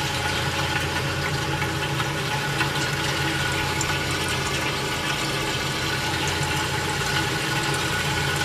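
General Electric CJ-1-C16 refrigerator's compressor running with a steady hum, under a hiss of liquid refrigerant flowing through the float valve into the evaporator as the system starts circulating.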